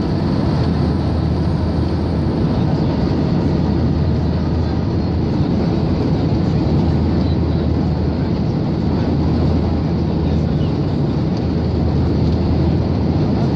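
Steady roar of a Boeing 737-800's CFM56 jet engines and airflow heard inside the passenger cabin, with a constant low hum underneath.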